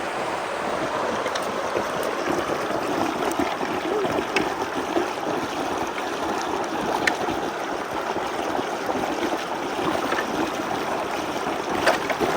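Flood water rushing and gurgling steadily as it starts to drain through a culvert that was clogged with leaves, with a few faint knocks.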